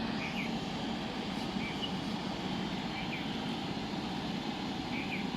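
Steady jet engine rumble with a faint high whine from a Boeing 777-300ER's GE90 engines at idle as it taxis in to park. A few short, faint high chirps come through.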